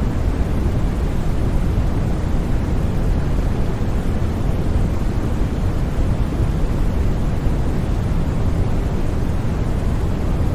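Steady, unchanging synthetic white noise, a constant rushing hiss weighted toward the low end.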